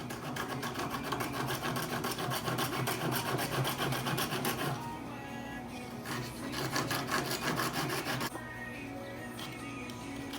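Hand file rasping back and forth on the jigsaw-cut notch of a wooden 2x4 frame side bar, rounding and squaring the inside corner. It goes in quick, even strokes for about five seconds, pauses, then files again for about two more seconds.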